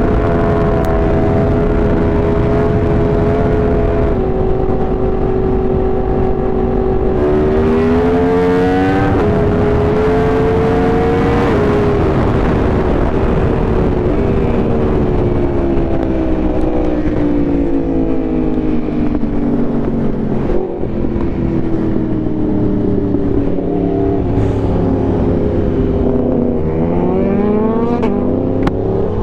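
Superbike engine heard while riding, over steady wind rush. It holds an even pitch at first, rises under acceleration around a quarter of the way in, falls slowly through the middle as the bike slows, and climbs again near the end.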